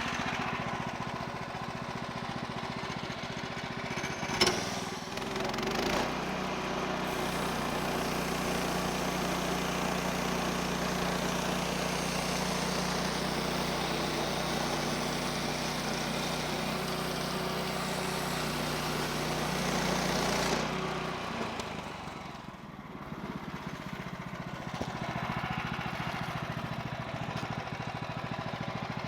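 Portable bandsaw mill's 14 HP Kohler engine idling, with a sharp knock about four seconds in. About six seconds in it is throttled up, and the centrifugal clutch drives the band blade through the log for a cut. It runs steady under load for about fifteen seconds, then drops back to idle.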